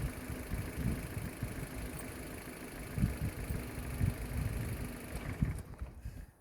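Ford Focus II petrol engine idling in the engine bay while the radiator cooling fan runs at low speed, restored after the wiring at the fan resistor connector was moved. Irregular low thumps sit under the steady running sound, and the sound drops away briefly near the end.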